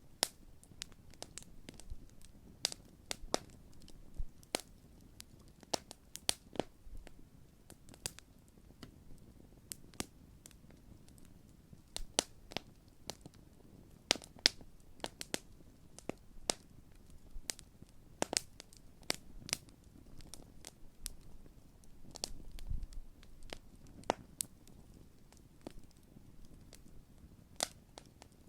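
Large wood campfire crackling: irregular sharp pops and snaps of burning wood, several a second at times, over a faint low rush of the fire.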